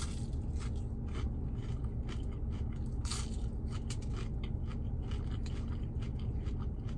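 Crispy fried waffle fries being bitten and chewed: a string of irregular crisp crunches, densest about three seconds in, over a steady low hum.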